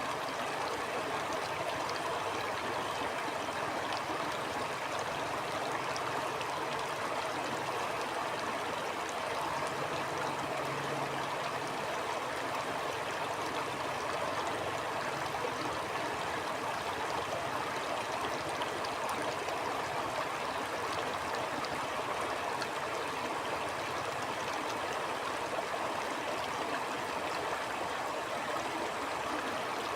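Shallow stream flowing steadily over stones, a continuous rush of water with fine gurgles and trickles and no pauses.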